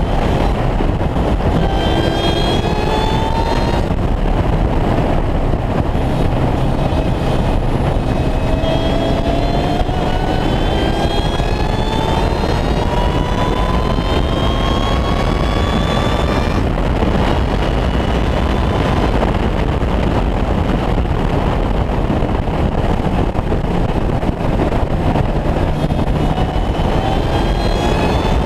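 Supercharged Ariel Atom 3.5's engine pulling hard on track: its pitch climbs for several seconds and drops sharply at each upshift, about twice, with another climb near the end. Heavy wind and road noise from the open cockpit runs under it.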